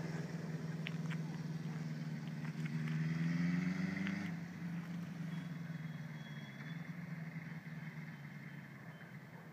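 Air-cooled inline-four engine of a 1978 Honda CB750 with a 4-into-1 exhaust, revving up about three seconds in, then easing off and fading as the motorcycle rides away.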